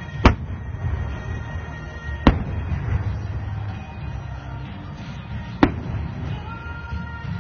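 Aerial firework shells bursting with sharp booms, three times, about two and three seconds apart, over music.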